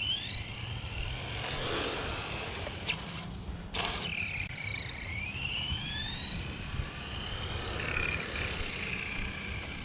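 Electric RC car's brushless motor whining as it speeds up and slows down, its pitch rising and falling in long sweeps over a low rumble of tyres on pavement. A short sharp click near four seconds in.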